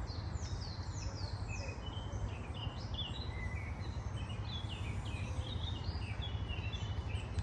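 Songbirds singing, a busy run of quick high chirps and short falling notes from more than one bird, over a steady low rumble.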